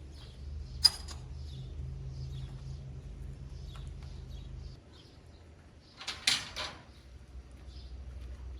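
A sharp clink that rings briefly about a second in, and a short scraping rustle about six seconds in, over faint high chirps of birds. A low hum stops about halfway through.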